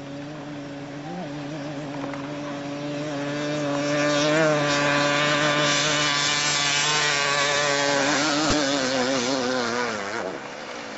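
A motor engine held at steady high revs, growing louder over several seconds, then dropping in pitch and fading near the end as it passes or eases off.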